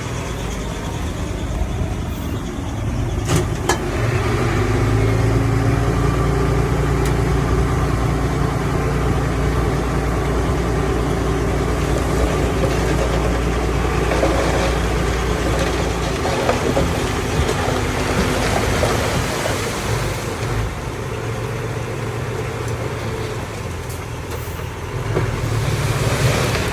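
Heavy diesel engine of earthmoving machinery running under load. It grows louder and higher about four seconds in and eases off after about sixteen seconds, with a sharp click a few seconds in.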